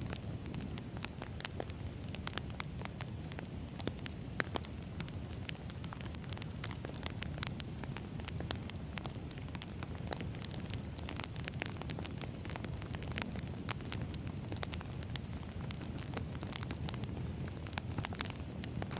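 Firewood burning: a steady low rumble of flames with frequent sharp crackles and pops from the logs.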